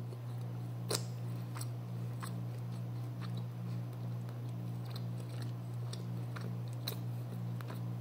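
A person chewing food, with scattered short sharp clicks, the sharpest about a second in and near seven seconds, over a steady low hum.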